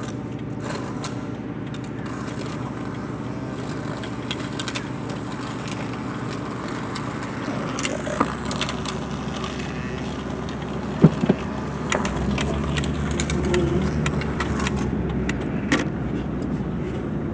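Truck engine idling steadily, with a new K&N cold air intake fitted, heard from inside the cab, with a few sharp clicks. About twelve seconds in the engine sound grows louder.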